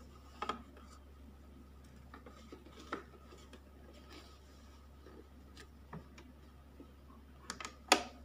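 Scattered light clicks and taps from handling cloth and a sewing machine during stitching. The sharpest is a close pair of clicks near the end.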